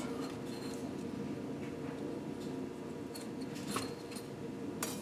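A few light, scattered clicks as original piston rings are worked off a piston, the sharpest near the end, over a steady low hum.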